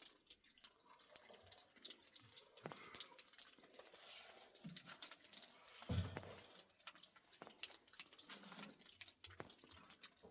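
Faint, irregular dripping of water, with a single dull thump about six seconds in.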